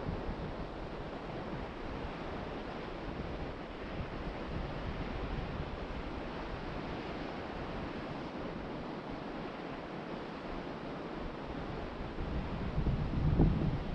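Ocean surf washing steadily onto the beach, with wind buffeting the microphone; a low rumbling gust swells up near the end.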